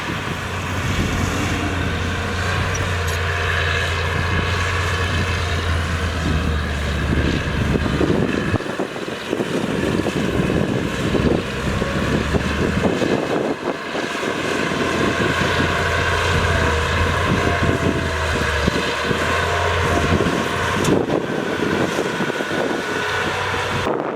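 Diesel engine of heavy earthmoving machinery running, its low drone fading and returning a few times over a constant rattling noise.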